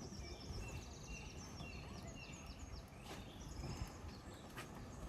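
Small wild birds chirping and twittering in quick, high, repeated notes over a steady low rumble.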